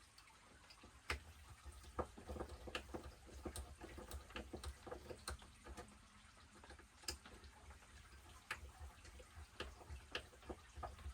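Faint, irregular small clicks and taps of metal RC-truck parts, screws and hand tools being handled and fitted during drivetrain reassembly.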